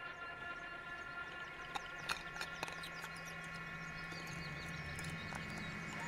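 Faint woodland ambience: scattered small chirps and clicks over a steady high ringing, with a low hum coming in about two seconds in.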